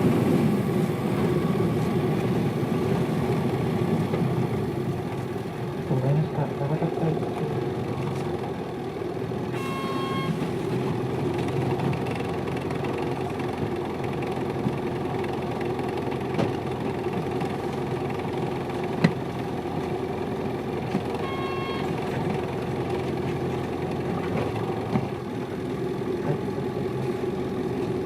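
Hino Liesse small bus running, heard from inside the cabin: steady diesel engine and road noise. A short electronic beep sounds twice, about ten seconds in and again about twenty-one seconds in.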